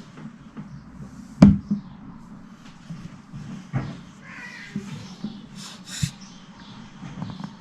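Slime being squeezed and worked by hand, with wet squishing and a few sharp pops, the loudest about one and a half seconds in.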